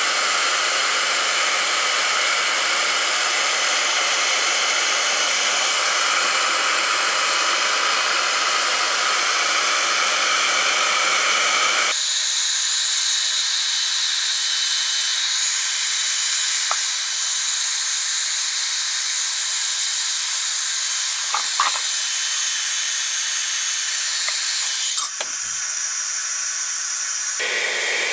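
Hot-air plastic welding gun blowing steadily with a full hiss; about twelve seconds in the sound abruptly thins to a higher hiss. A few light knocks come near the end.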